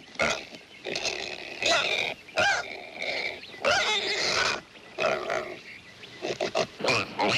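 Piglets squealing and grunting in a series of short, shrill, irregular calls.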